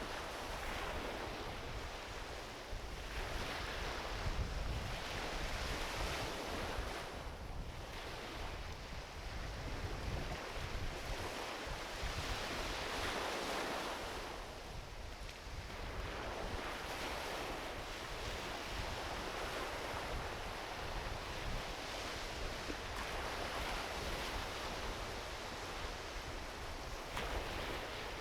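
Gentle ocean waves washing onto a beach, the surf swelling and easing every few seconds, over a low rumble of wind on the microphone.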